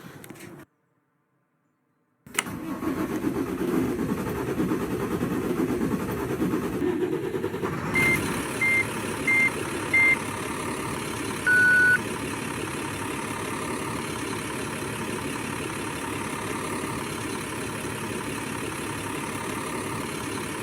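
2008 IC CE 300 school bus's MaxxForce DT inline-six diesel starting suddenly about two seconds in, running rough for several seconds, then settling into a steady idle. Four short electronic beeps and then one longer beep sound over the engine around the middle.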